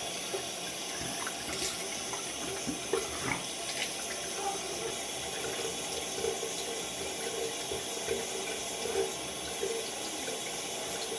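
Bathroom sink tap running steadily, water splashing into the basin, with a few small clicks.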